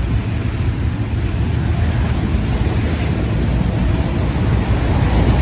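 Autorack freight cars rolling past close by, with the steady noise of steel wheels running on the rails and a heavy low rumble underneath.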